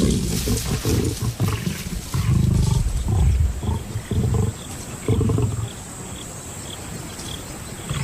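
Lions growling in a fight over a kill, as a young male lion drives lionesses off a carcass: a run of deep, harsh outbursts over the first six seconds, then quieter.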